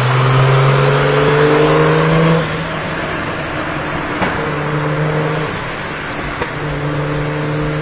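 Big-turbo Toyota Supra's 2JZ inline-six accelerating hard in the next lane, heard from inside a car alongside. Its note rises steadily for about two and a half seconds, then drops away suddenly as it lets off, leaving a steadier engine drone and road noise.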